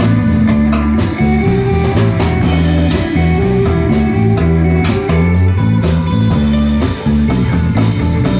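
Live rock band playing an instrumental passage: electric guitar over bass and a drum kit with percussion, loud and steady.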